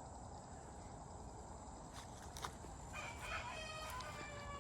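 A rooster crowing faintly: one long, slightly wavering call that starts about three seconds in.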